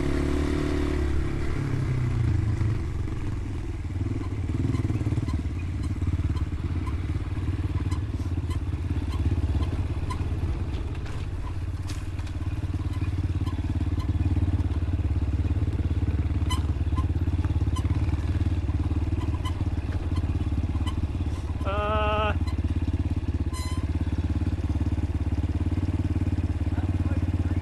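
Dirt bike engine running steadily under way on a trail, a constant low drone with scattered small ticks and clatter.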